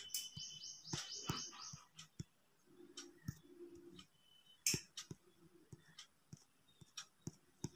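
Faint bird chirping: a quick run of high rising chirps in the first two seconds. Scattered soft clicks run through it.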